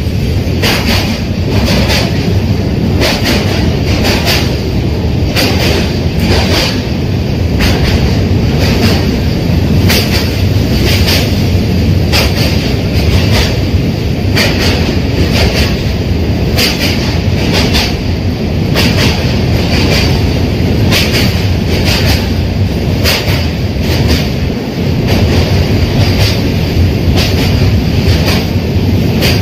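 Passenger train running along the track: a steady loud din with a clickety-clack from the rail joints about once or twice a second, and a faint steady high whine.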